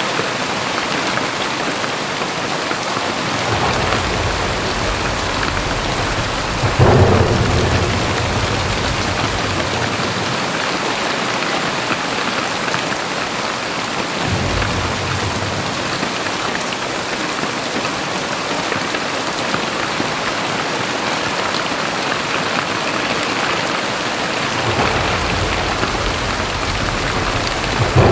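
Heavy rain pouring steadily, with low rolls of thunder. A sharper, louder thunderclap comes about seven seconds in, and another right at the end.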